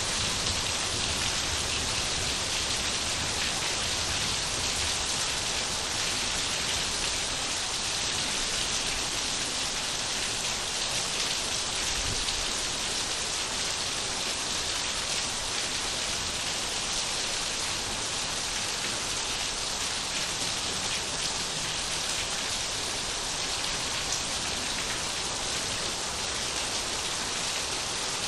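Steady rain falling, a dense even hiss with fine patter of drops on surfaces.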